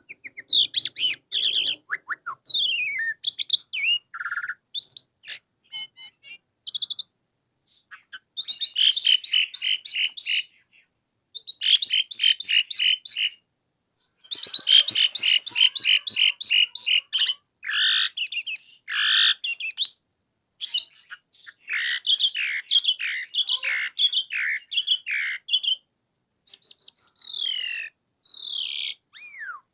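Pied starling (jalak suren) singing vigorously. It gives phrases of rapid, repeated chattering notes mixed with sliding whistles, each phrase lasting a couple of seconds, with brief pauses between them.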